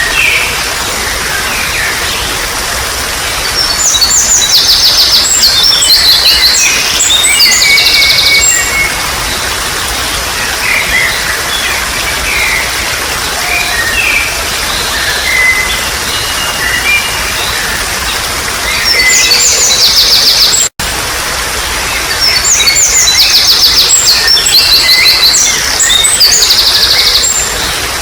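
Steady trickling water with wild songbirds singing over it: two long runs of fast, repeated high trilled notes, with scattered shorter chirps between. The sound cuts out for an instant about 21 seconds in.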